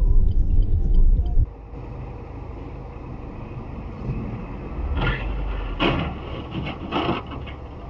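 Low rumble of a road vehicle that drops off abruptly about a second and a half in, leaving a quieter steady background with a few short louder sounds near the end.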